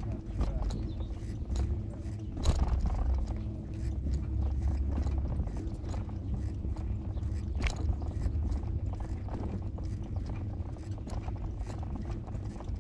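Moving vehicle heard from inside: a steady low running rumble with frequent irregular clicks and rattles, the sharpest about two and a half seconds in.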